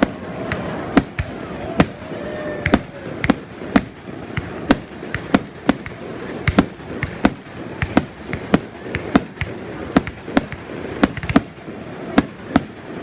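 Fireworks show: aerial shells bursting one after another in quick succession, sharp bangs about two a second over a steady background rumble.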